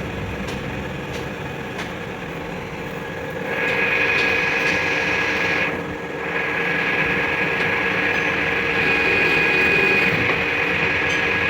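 A workshop power tool running with a steady whine, getting louder about three and a half seconds in, dropping away for a moment near six seconds and then running on.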